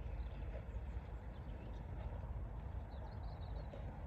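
Outdoor ambience: a steady low rumble, with a few faint bird chirps near the end.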